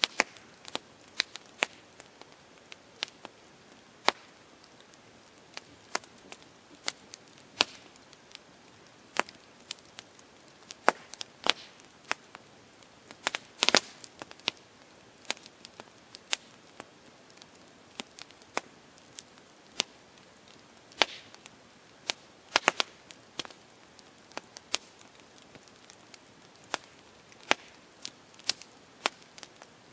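Campfire crackling: irregular sharp pops and snaps of burning wood over a soft hiss, with a quick cluster of pops about halfway through and another a little later.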